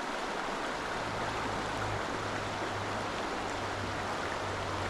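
A creek running steadily, an even rush of flowing water. A low steady hum joins it about a second in.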